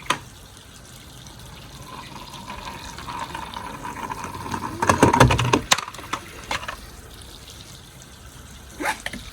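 Water running steadily, then a loud splash about five seconds in as a toy police car slides down a water slide into a backyard pool.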